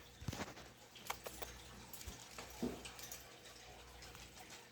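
Faint, scattered clicks and small rattles of a pet bird working at its cage door to open it.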